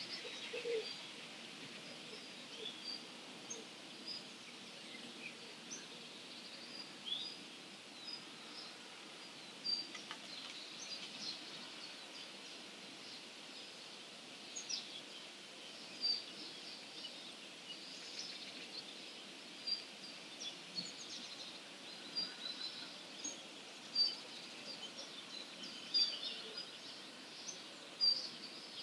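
Early-morning birdsong of several wild songbirds: many short, high chirps and calls scattered throughout, over a steady background hiss.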